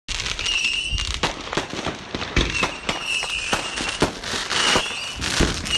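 New Year's fireworks and firecrackers going off: a rapid, irregular series of sharp bangs and cracks, with short high whistles coming and going between them.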